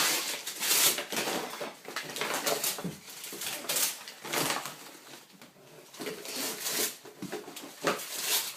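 Gift wrapping paper rustling and tearing in irregular bursts as a present is unwrapped.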